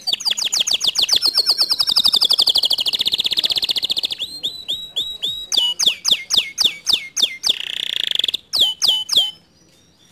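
Domestic canary singing: a very fast, high trill for about four seconds, then a run of separate whistled notes that sweep downward, a short buzzy note, and three more sweeping notes before the song stops.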